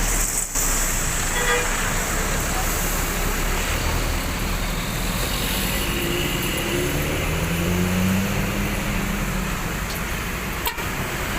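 Buses and traffic at a roadside bus terminal: steady road noise with engines running, and one engine's hum rising in pitch about six seconds in.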